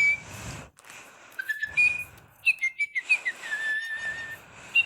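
Little Live Pets electronic toy bird chirping: a string of short, high whistled tweets and slides, some falling, and one held whistle note in the second half.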